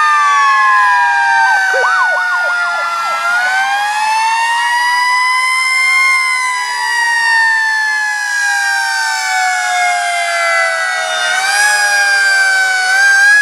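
Several fire truck sirens sounding at once, their wails rising and falling slowly in pitch and overlapping. A faster warbling siren cuts in briefly, from about one and a half to four seconds in.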